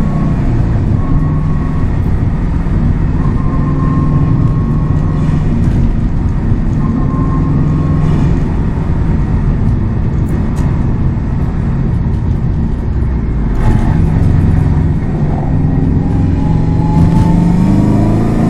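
Subaru WRX STI's turbocharged flat-four engine and exhaust pulling along a winding road, its note holding fairly steady, dipping briefly about two-thirds of the way in, then rising in pitch as the car accelerates near the end.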